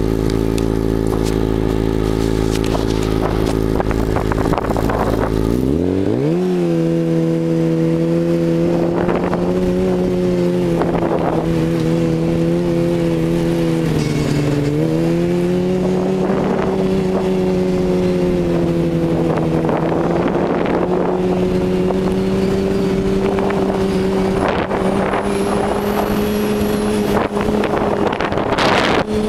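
Yamaha Attak snowmobile's four-stroke four-cylinder engine through an aftermarket Excell exhaust, idling low, then revving up about six seconds in and holding a steady high note under way. It eases off and picks up again about halfway through, with scattered short knocks over it.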